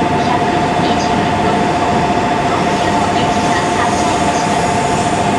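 Shinkansen train noise at the platform: a loud, steady rush with a steady two-note whine that holds its pitch throughout.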